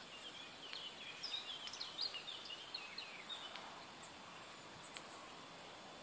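A small bird singing a quick run of short chirps and whistles over a faint steady outdoor hiss; the song dies away a little past halfway.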